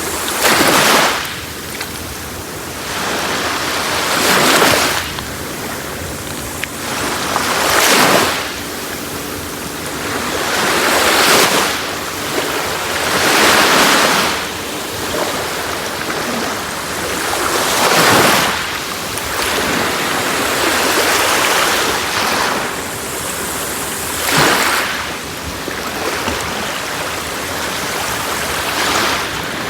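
Sea waves breaking on a shore in a slow, uneven rhythm, about eight swells in half a minute, each one surging up and fading back into a steady wash of surf.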